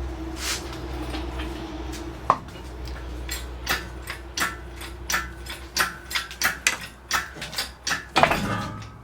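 Irregular metallic clinks and clanks, about two a second through the second half, over a steady low hum: metal tools and parts knocking together during work on the engine.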